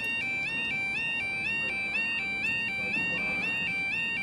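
Railway level crossing warning alarm sounding: an electronic two-tone yelp alternating between two high pitches about twice a second, steady and unbroken.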